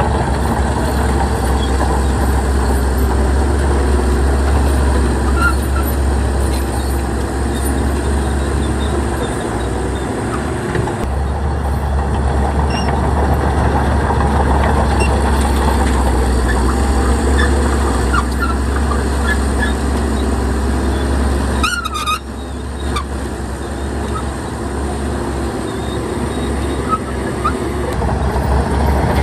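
Heavy diesel earthmoving machinery running steadily with a deep low rumble, with a brief high-pitched squeal a little over two-thirds of the way through.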